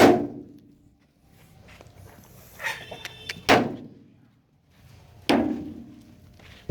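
Three loud bangs, like something heavy striking or slamming: one at the start, one about three and a half seconds in and one near the end, each dying away within about a second. A brief sound with steady high lines comes just before the second bang.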